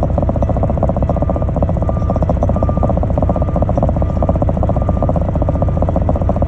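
Heavy diesel engine running steadily, with a backup alarm beeping about once every 0.7 seconds over it.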